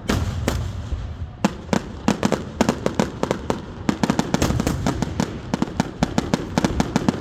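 Fireworks show: a rapid, irregular barrage of sharp cracks and pops, several a second, over a low rumble of shell bursts.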